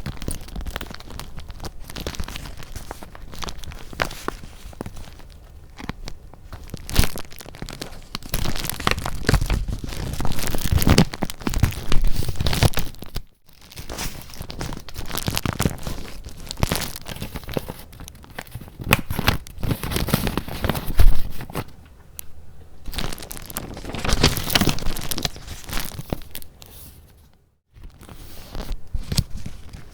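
Paper items being handled: sheets and packets rustling, crinkling and crackling as they are picked up, shuffled and turned over, in an irregular run of crisp rustles that twice breaks off to silence for a moment.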